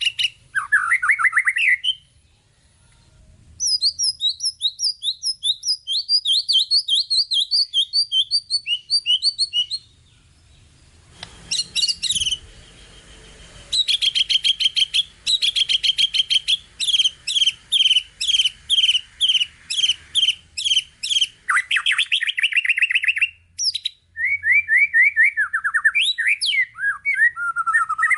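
White-rumped shama (murai batu) singing a varied song full of mimicked phrases: fast runs of repeated high notes and trills, broken by short pauses, with a harsh rattling stretch about eleven seconds in and a long buzzy note near the end.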